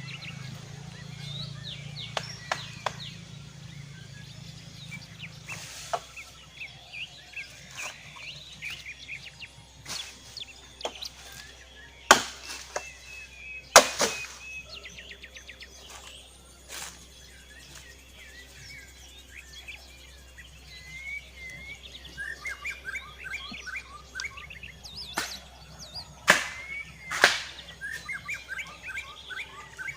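Sharp chopping blows on wood, scattered and irregular, the loudest coming in two pairs about halfway through and near the end, with birds chirping throughout.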